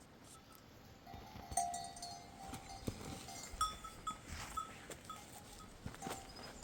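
Sheep bells on a grazing flock ringing. From about a second in, one ringing note holds for about two seconds, then a quick run of short dings follows.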